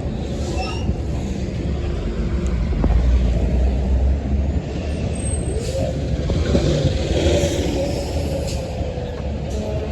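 Heavy road traffic: trucks passing with a deep, steady engine and tyre rumble. In the second half a hiss rises and fades, in keeping with a truck's air brakes.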